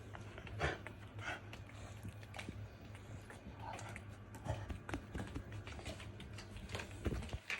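A Shiba Inu scrabbling on a floor in rough play, its claws and paws making irregular light clicks and taps, with a few louder short scuffles.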